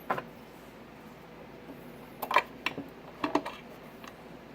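A few small clicks and knocks of hand-handled equipment, heard in short clusters, consistent with a 50 watt slug being swapped for a 100 watt slug in an in-line RF wattmeter.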